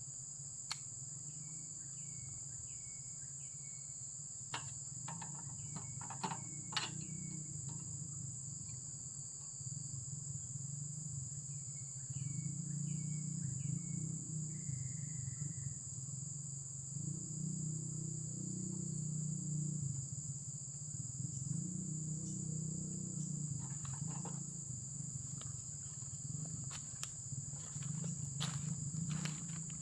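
Crickets or similar insects trilling in a steady high chorus, over a low rumble that swells and fades. Scattered clicks and knocks, and three short series of about four chirps each, in the first half.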